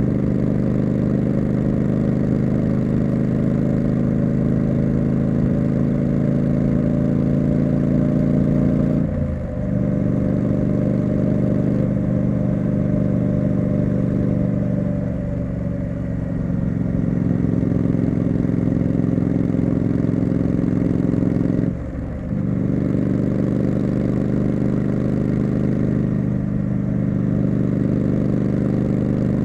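Triumph Street Scrambler's 900 cc parallel-twin engine and exhaust running steadily under way. The sound dips briefly about nine seconds in and again about twenty-two seconds in, with smaller dips in between.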